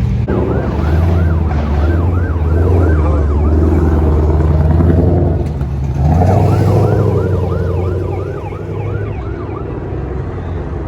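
Emergency vehicle siren in a fast yelp, about three rising-and-falling sweeps a second, sounding in two runs with a brief break in the middle and stopping a second or two before the end. A steady low engine rumble runs underneath.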